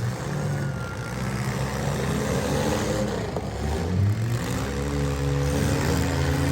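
Engines of compact and midsize demolition-derby cars running and revving, their pitch rising and falling.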